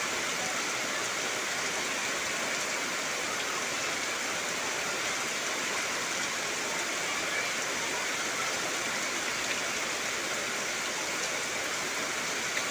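Heavy rain falling steadily, an even, unbroken hiss of rain on trees.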